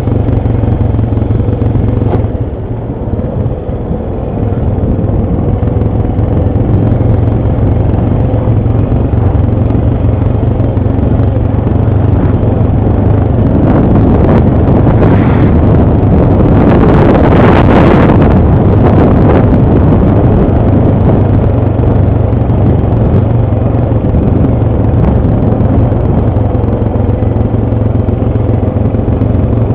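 ATV engine running under way, a steady low hum that eases briefly a couple of seconds in, with a louder, rougher rushing stretch about halfway through.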